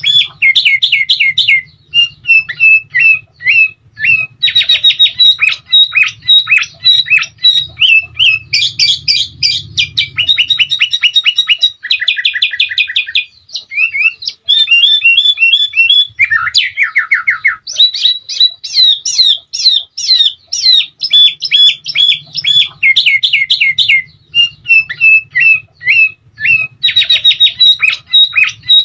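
Sooty-headed bulbul (kutilang) singing continuously in fast runs of repeated chirping notes and rapid trills, with a lower, faster trill about sixteen seconds in.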